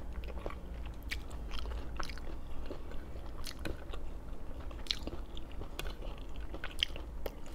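A person chewing and biting braised pork belly: many short, irregular wet clicks and smacks of mouth and food, over a steady low hum.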